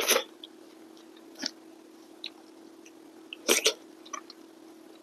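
Close-up eating sounds of a person chewing a handful of rice and steamed fish: wet mouth clicks and smacks. The two loudest come just after the start and about three and a half seconds in, with softer clicks between, over a faint steady hum.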